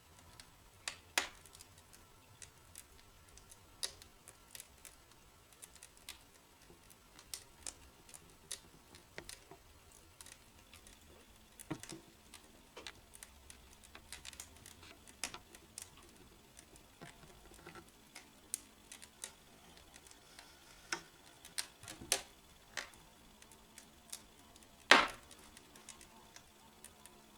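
Logs burning in a fireplace, crackling with irregular sharp pops and snaps, one louder pop near the end.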